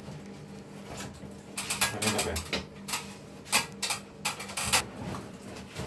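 Plastic insulation tape pulled off its roll in a series of short, scratchy pulls while it is wrapped around a chilled-water pipe, over a steady low hum.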